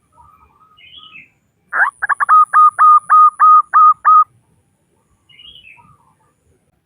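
Female zebra dove calling to draw a male: one phrase of about nine short cooing notes, a quick stutter at the start and then evenly spaced at about four a second. Softer, higher chirps come before and after it.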